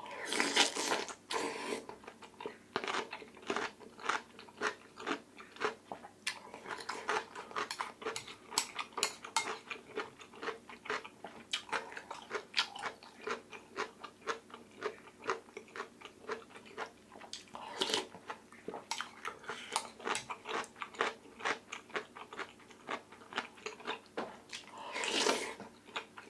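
A person chewing spoonfuls of oyster rice soup close to the microphone: many quick mouth clicks and bites, with a louder burst about a second in and another near the end.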